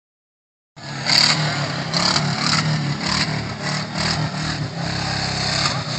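Subaru wagon's flat-four engine revving up and down as the car drives around a gravel pit, with repeated short bursts of hiss over it. The sound starts about a second in.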